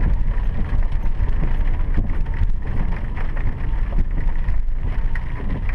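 Car interior road noise while driving on a wet road: a steady low rumble of tyres and engine.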